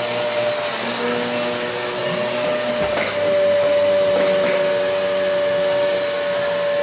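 Electric vacuum cleaner running with a steady motor whine and hiss as it is pushed back and forth over the floor; the whine steps up slightly in pitch and gets a little louder about three seconds in.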